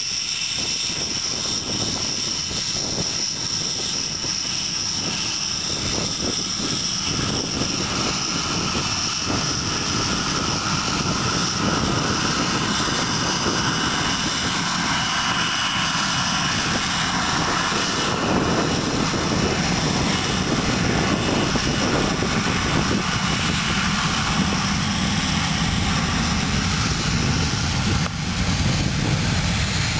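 Aircraft engines running steadily, growing slowly louder as the aircraft departs.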